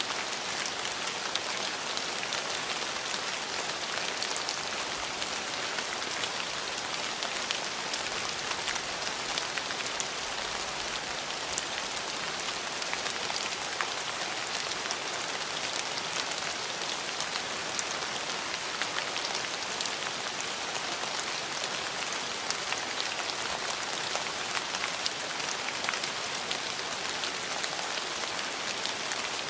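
Steady rain falling, an even hiss sprinkled with countless small drop ticks on hard surfaces.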